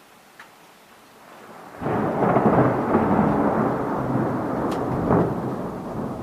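Thunder: a sudden clap a little under two seconds in that rolls on as a long rumble, slowly easing, over faint rain.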